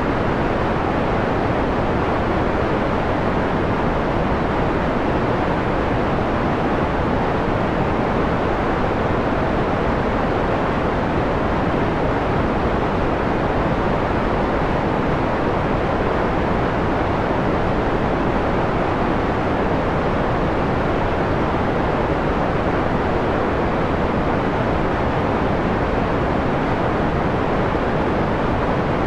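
Steady synthetic white noise filtered to a mellow, muffled hiss with little treble, like a low rushing wind. It keeps the same level throughout.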